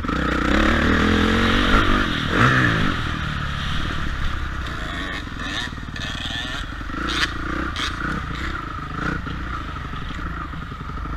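Motocross bike engine revving, loudest in the first few seconds with the pitch swinging up and down about two seconds in, then running on more steadily and a little quieter.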